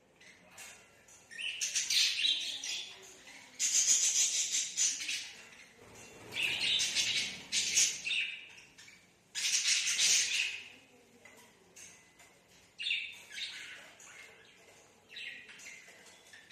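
Budgerigar chattering in about six short, high-pitched bouts of roughly a second each, with quiet gaps between them.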